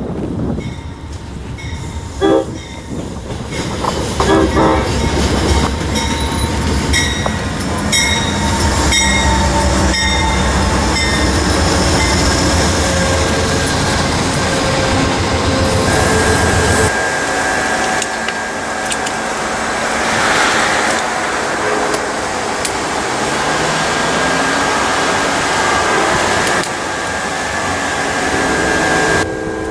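Amtrak passenger train passing close by: heavy diesel locomotive rumble with wheels clicking over rail joints. About 17 seconds in it changes abruptly to a lighter rolling sound with a steady high whine.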